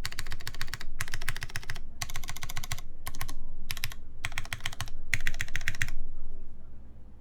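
Typing on a Duck Jetfire mechanical keyboard with lubed Cherry MX Brown tactile switches, a polycarbonate plate and GMK keycaps: fast runs of keystrokes with short pauses between them, stopping about six seconds in.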